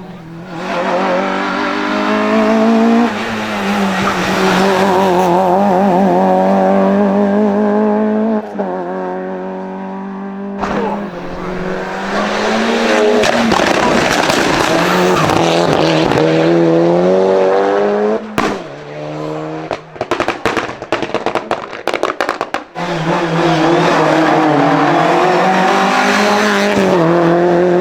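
Hill-climb race car engines at high revs, pitch climbing and dropping repeatedly through gear changes, with tyre squeal. For a few seconds past the middle the engine sound gives way to a rapid run of sharp pops and crackles.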